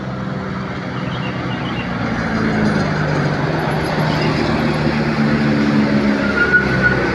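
A heavy truck's engine running and getting louder as it comes closer, with tyre and road noise. A thin, high, steady whine joins near the end.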